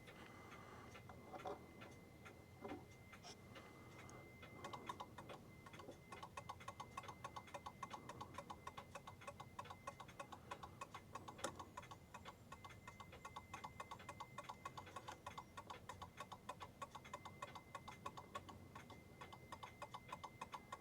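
Clock movement ticking steadily at about four ticks a second, faint but clear; the ticking comes up about four and a half seconds in. A few light clicks come earlier, and one sharp click falls near the middle.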